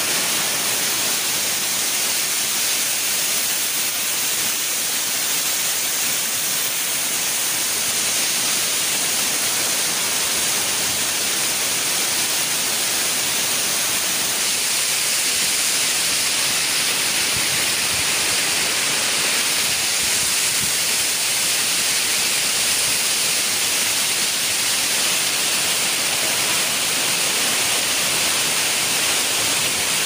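Steady, hissing rush of Asik-Asik Falls, a wide curtain of water pouring down a cliff face.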